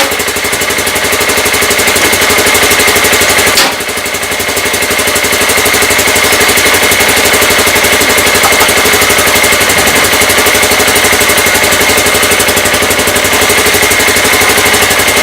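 Polaris RZR 570's single-cylinder engine idling steadily just after a cold start. Its loudness drops sharply about three and a half seconds in, then builds back up over a couple of seconds.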